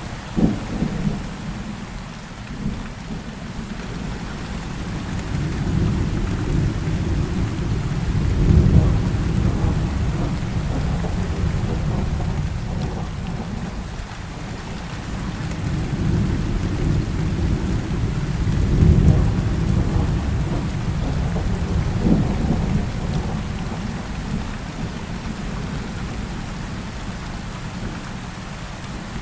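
Heavy rain falling steadily, with rolling thunder that swells and fades twice, with a sharper crack near the start and another about two-thirds of the way through.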